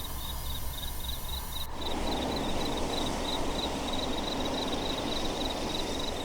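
Insects chirping in a steady rhythm, about three to four high chirps a second, over a steady hiss that grows fuller about two seconds in.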